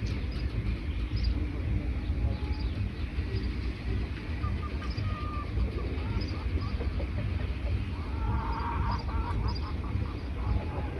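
Wild birds chirping, with short high calls scattered throughout, over a steady low rumble. About eight seconds in, a louder, lower call comes as a quick series of notes, and it comes again near the end.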